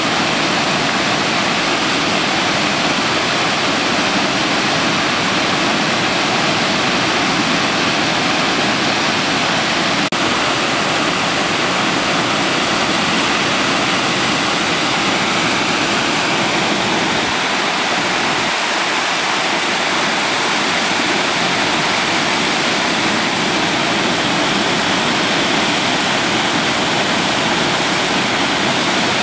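Steady, loud rush of a waterfall, its water falling without a break.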